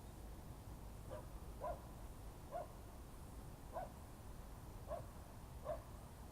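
A dog barking faintly, six short barks spaced unevenly, over a low steady rumble.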